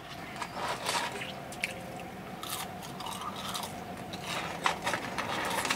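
Close-up chewing of fries: a run of irregular crunches and mouth noises.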